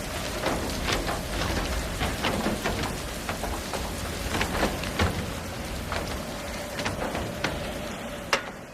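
Steady rain falling, with irregular sharp taps of drops striking throughout.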